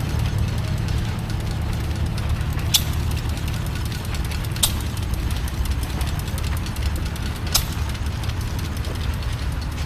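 Antique tractor engines running, a steady low rumble, with a few sharp high clicks at irregular gaps of two to three seconds.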